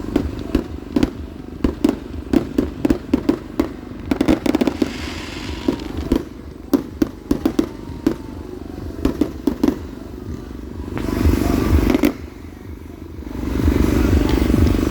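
Fireworks going off: rapid crackling cracks and pops, then two stretches of steady rushing noise, one about eleven seconds in and one near the end.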